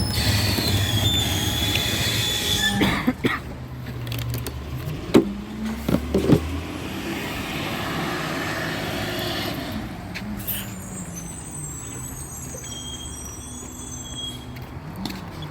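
Recycling truck at work: an air hiss that cuts off about three seconds in, a few sharp clanks about five to six seconds in, then the truck's engine revving up and settling back.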